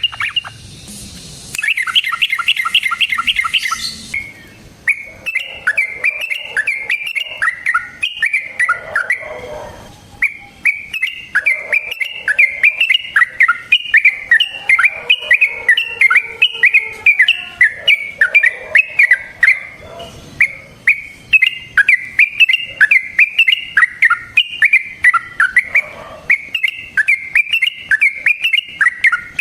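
Yellow-vented bulbul (trucukan) singing long, fast runs of bubbly chattering notes in phrases broken by brief pauses.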